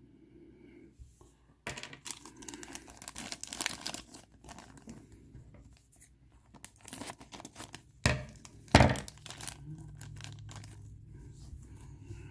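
Plastic bags of miniatures being torn open and crinkled, with two loud thumps about eight and nine seconds in.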